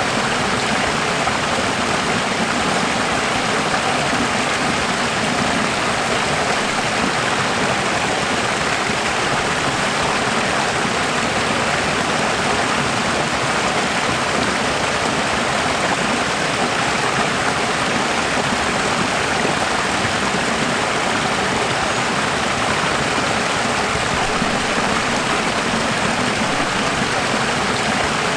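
Running water rushing steadily, an even, unbroken hiss with no changes.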